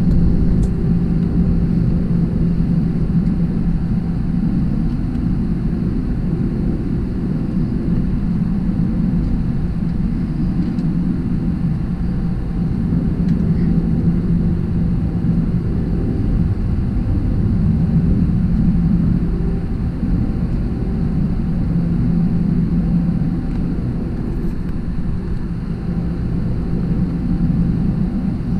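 Airbus A321 cabin noise at a window seat: a steady engine drone with a low hum and rumble underneath, neither rising nor falling.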